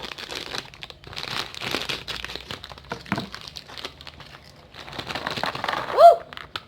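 Plastic snack packet crinkling and crackling as it is handled and opened by hand, in uneven rustles. A short voiced exclamation comes near the end.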